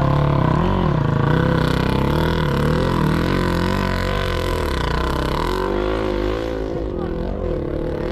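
Several sidecar motocross motorcycle engines revving hard, their pitch repeatedly rising and falling as the riders work the throttle around the track.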